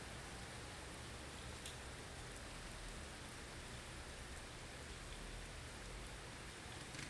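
Blizzard ambience: a steady rush of wind-driven noise over a low rumble, with a faint tick or two, as of snow or ice grains striking a surface.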